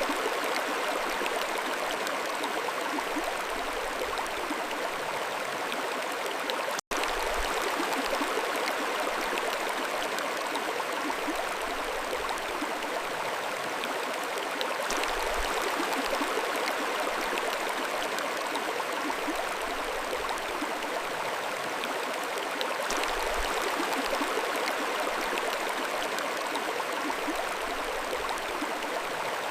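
Mountain stream running steadily over stones, an even rushing and gurgling of water. The sound drops out for an instant about seven seconds in.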